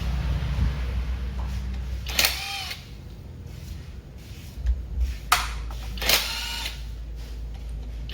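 Power tool run in three short bursts, its whine bending down in pitch as each burst ends, over a steady low hum.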